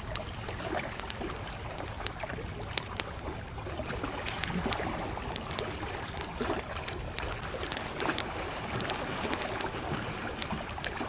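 Wood campfire crackling with frequent sharp pops, over the steady wash of small lake waves lapping.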